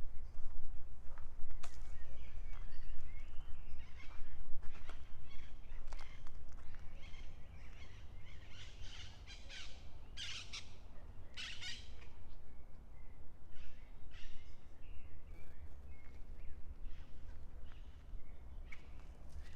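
Many birds chirping and calling in forest, with footsteps of a person walking on the trail, most noticeable in the first few seconds. Two louder calls come about ten and eleven and a half seconds in.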